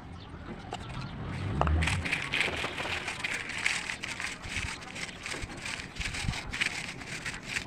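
Rapid, dense crunching of something brittle being crushed, starting about two seconds in after a soft low thump.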